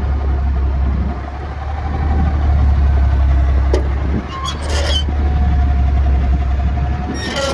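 A 2014 Kenworth T800 semi truck's natural-gas engine idling with a steady low rumble, with short bursts of hiss about halfway through and again near the end.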